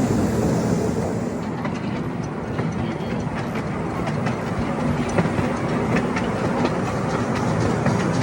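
Miniature ride-on train running along its track, heard from a passenger car: a steady rumble of wheels on rail with faint, irregular clicks from the rail joints.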